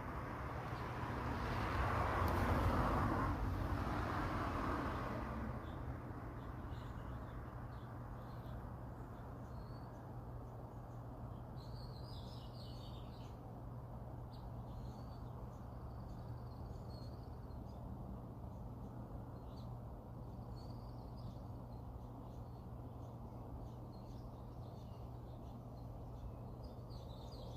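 Outdoor ambience with small birds chirping now and then over a steady low background noise. A broad rush of noise swells and fades away in the first five seconds.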